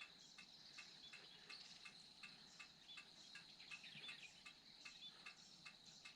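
Insects chirping faintly: a steady high whine with short, evenly spaced chirps about three times a second.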